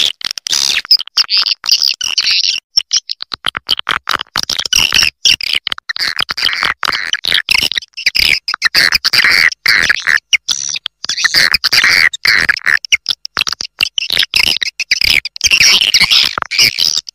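Recorded swiftlet call of the kind played to lure edible-nest swiftlets into a swiftlet house: loud, dense twittering and chirping chatter in quick broken runs with short gaps.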